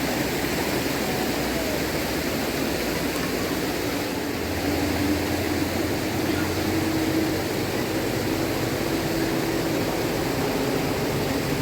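Steady rushing of river water, an even noise, with a faint low hum joining about four seconds in.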